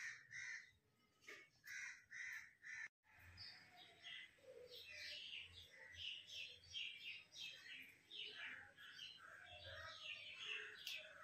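Faint birds calling: a few harsh, evenly spaced caws in the first three seconds, then a brief break and a busy, steady stream of chirps.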